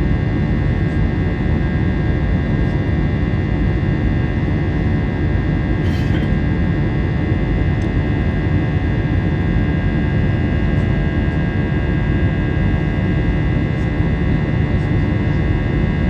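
Jet airliner engines running steadily at high power: a constant loud rush with several fixed whining tones layered over it. A faint click about six seconds in.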